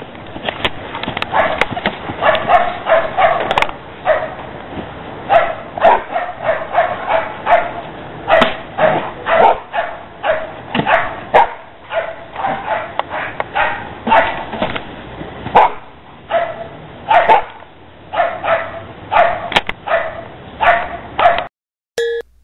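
A dog barking over and over, in quick bursts, for about twenty seconds; the barking cuts off suddenly near the end and a couple of short electronic beeps follow.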